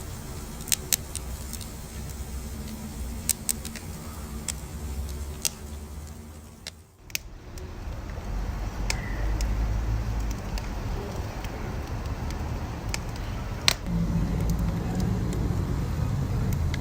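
Wood fire crackling: sharp, irregular pops over a low, steady rumble of the flames. The rumble dips briefly about seven seconds in and comes back louder, and the sharpest pop comes a few seconds before the end.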